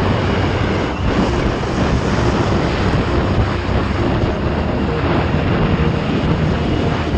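Motorcycle riding at a steady speed: the engine runs evenly under a loud, constant rush of wind on the microphone.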